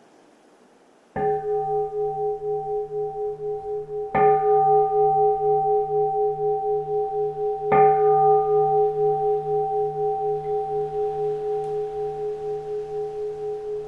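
Keisu, a Zen temple bowl bell, struck three times about three seconds apart, each strike ringing on in a wavering hum that slowly fades.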